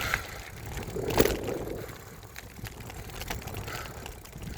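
Mountain bike ridden on a dirt trail, heard through a phone mounted on the bike: a steady low rumble and rattle, with one loud knock about a second in.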